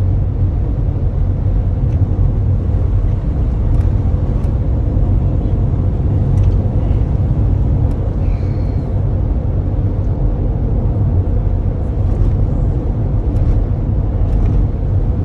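Steady low rumble of engine and tyre noise inside a moving vehicle on the road, with a few faint light ticks.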